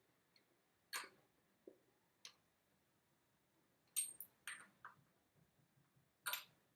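A handful of sharp metallic clinks and taps, spread out with quiet between them, and a quick group of them about four seconds in.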